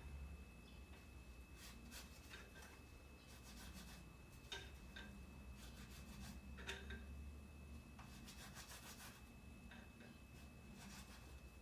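Faint rubbing and scraping of fingertips spreading homemade coffee paint over a cardboard toilet-paper tube, in short irregular strokes.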